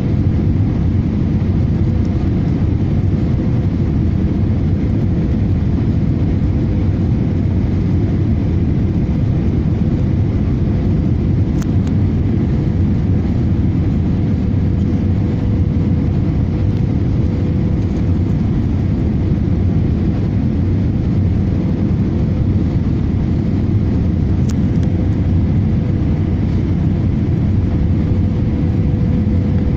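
Airbus A318 jet airliner running steadily: a loud, unchanging low rumble of engines and airflow with a steady hum over it.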